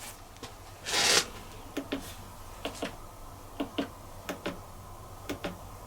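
Small plastic clicks, mostly in close pairs, a few times over several seconds: control-panel buttons on a Bosch Serie 4 dishwasher being pressed and released. A short hiss about a second in.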